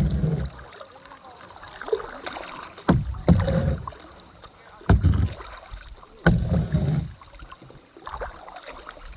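Kayak paddling: a run of paddle strokes about every one and a half to two seconds, each opening with a sharp knock followed by a low rush of water.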